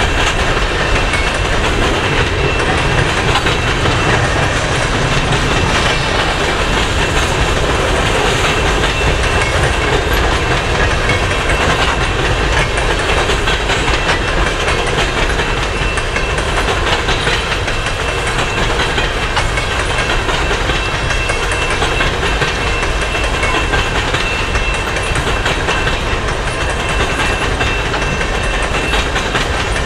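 Steel-wheeled coal cars of a freight train rolling past, a steady clatter of wheels on the rails, with a thin steady high-pitched tone above it.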